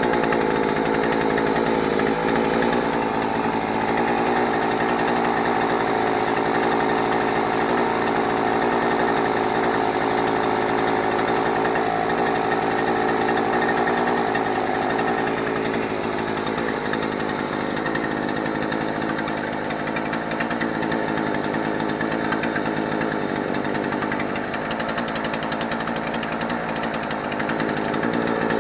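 Chinese-made outboard motor fitted with a double muffler, running steadily during a routine test run; its note eases off a little about halfway through.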